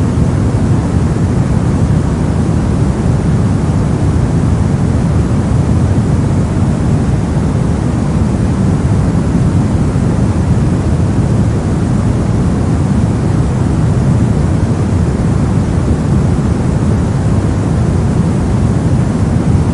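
Steady soft noise for sleep and focus, a deep, even rush weighted to the low end rather than a bright hiss, unchanging throughout.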